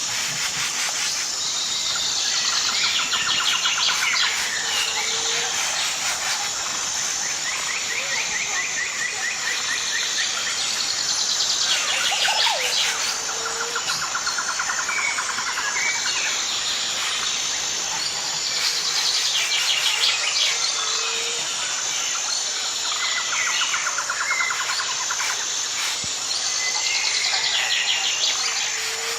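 Birds singing in trilled, chirping phrases that come back every few seconds, over a steady high-pitched insect drone.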